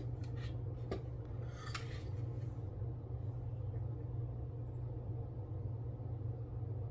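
A steady low hum with a few faint light clicks and clinks in the first couple of seconds, from small paint-pot and brush handling during brush touch-up painting.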